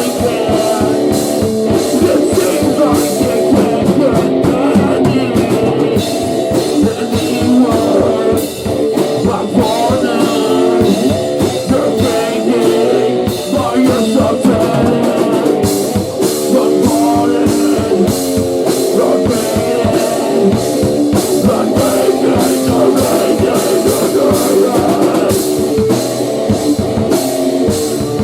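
A rock band playing a heavy, grunge-style song: electric guitar and a drum kit with steady cymbal hits.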